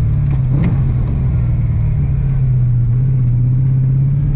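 LS V8 engine in a BMW E46, running through its new custom exhaust as a loud, steady low drone, holding even revs.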